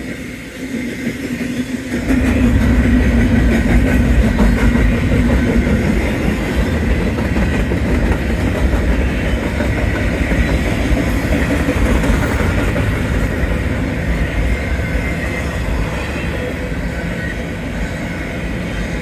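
BNSF intermodal freight train's cars rolling past close by: a steady rumble of wheels on the rails that gets louder about two seconds in.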